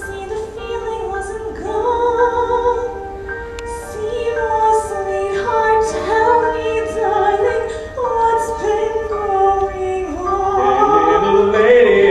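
A woman singing a slow, sustained melody with instrumental accompaniment, in a stage-musical style.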